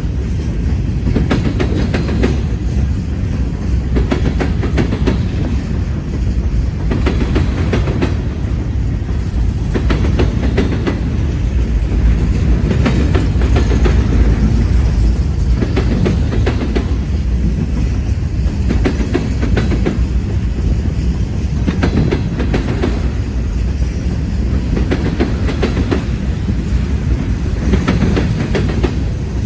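Norfolk Southern freight train rolling past close by, with a heavy steady rumble and groups of wheel clicks over the rail joints every few seconds as the cars go by.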